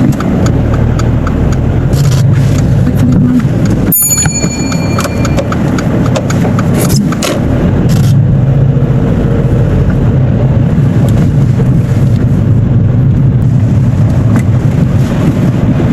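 Car driving on town roads, heard from inside the cabin: a steady low engine and road drone. About four seconds in there is a sharp knock and a brief high ringing tone.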